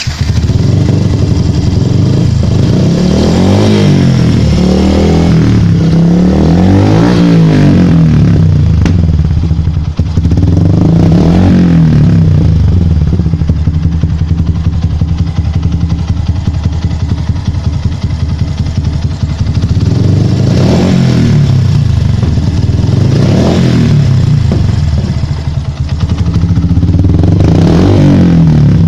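A Yamaha Byson's air-cooled single-cylinder engine runs and is blipped repeatedly: a cluster of revs in the first several seconds, then single revs spread through the rest. The exhaust pops (nembak) on the throttle, an afterfire that persists even with the AIS air-injection hose blocked off.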